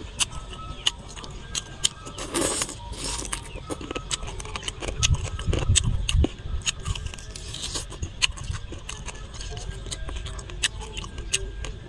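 Close-up mukbang eating sounds: a man chewing and tearing at charred grilled pork rib, with many irregular crisp clicks, crackles and mouth smacks over low, uneven thuds.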